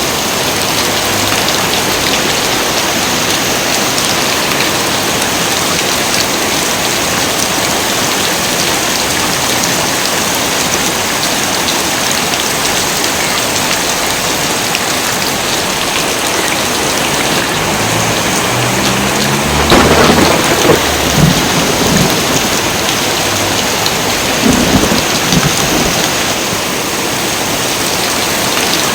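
Heavy rain pouring steadily, with a roll of thunder that builds about two-thirds of the way in and peaks loudest a couple of seconds later, followed by a second, smaller rumble a few seconds after.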